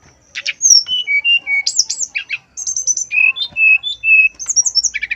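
Brown-chested jungle flycatcher singing a rapid, varied phrase. It starts under half a second in, with clear whistled notes, quick upward slurs and high fast trills, and pauses briefly about halfway through.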